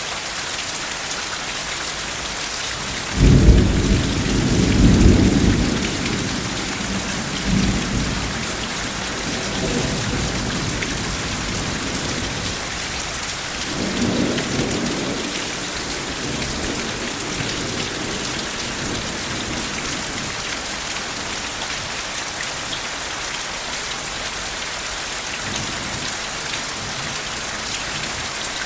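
Steady heavy rain with rolling thunder: a sudden loud clap of thunder about three seconds in that rumbles for a few seconds, a weaker rumble about fourteen seconds in, and faint grumbles between.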